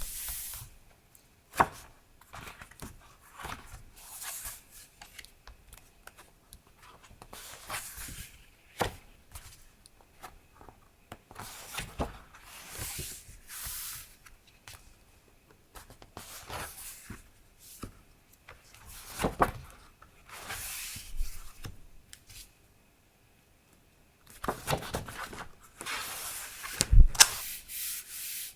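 Paper stationery being handled: irregular bursts of paper rubbing and sliding with quiet gaps between them, a few light taps, and a louder knock near the end.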